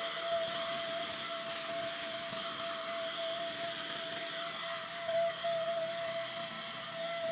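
A small motor running steadily with a continuous hiss.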